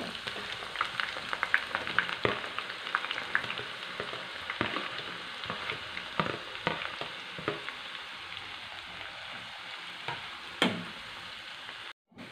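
Sliced onions deep-frying in hot coconut oil in a pan: a steady sizzle full of crackles, busiest in the first half as the fresh batch goes in, then thinning out. One sharper click near the end.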